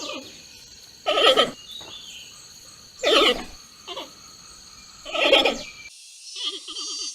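Giant panda bleating: five short, wavering calls, one every second or two, the last one pulsing.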